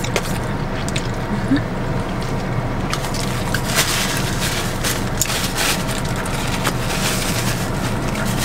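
Close-up chewing and wet mouth sounds of someone eating fast food, with short clicks and crackles from a paper sandwich wrapper, over the steady low hum of a car idling.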